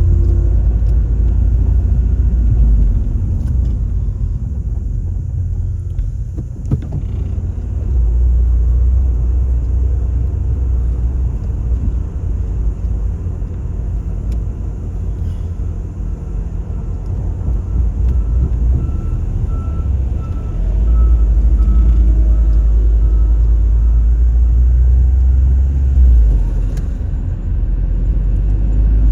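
A car being driven, with a steady low rumble of engine and road noise that swells and eases a couple of times, and a few light knocks.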